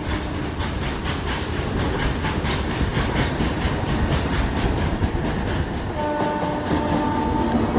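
Loaded ore wagons rolling past, their wheels clattering over the rail joints in a rapid, steady rhythm. A train horn sounds for about a second and a half near the end.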